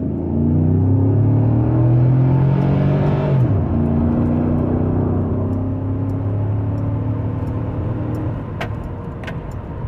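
2008 Chevrolet Tahoe's 5.3-litre V8 under hard acceleration from a standstill, its note climbing. It drops sharply at an upshift about three and a half seconds in, climbs again more slowly, and eases off near the end.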